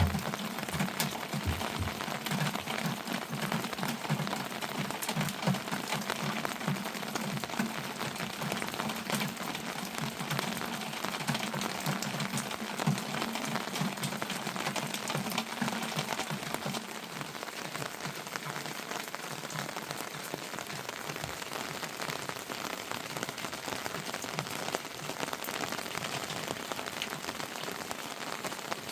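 Heavy rain falling, a dense steady patter of drops that eases slightly about halfway through.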